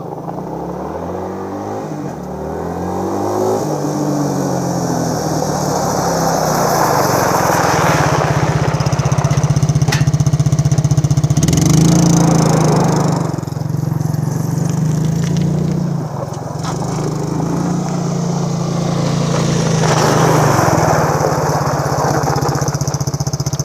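Small engine of a four-wheeler (ATV) running. It revs up over the first few seconds, then holds a steady speed, easing off briefly about two thirds of the way through.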